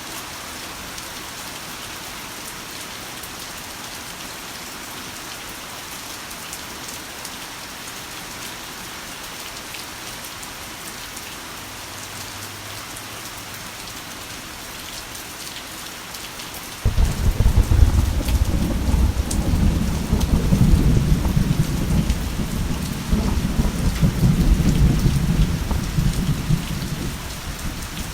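Heavy rain falling steadily with an even hiss. About 17 seconds in, a loud clap of thunder breaks in suddenly and rolls on as a deep rumble, easing off near the end.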